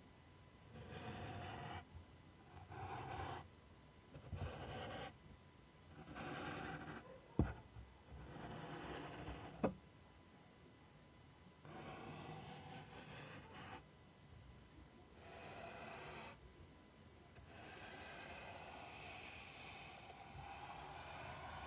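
ASMR scratching: repeated rasping scratch strokes across a surface, each one to two seconds long with short pauses between, and a longer stretch near the end. Two sharp taps come about seven and a half and nine and a half seconds in.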